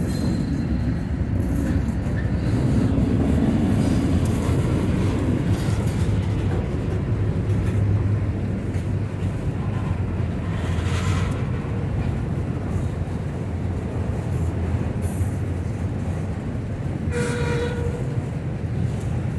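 Freight train cars, covered hoppers and an autorack, rolling past close by: a steady low rumble of steel wheels on rail. A brief high-pitched sound comes about eleven seconds in, and another near the end.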